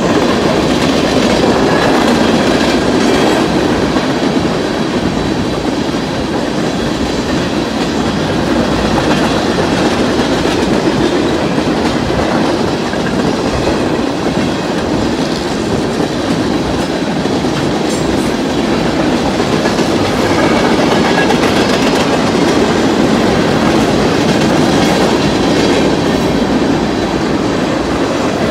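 Freight train of tank cars rolling steadily past at close range: a continuous rumble with the clickety-clack of the wheels over the rail joints.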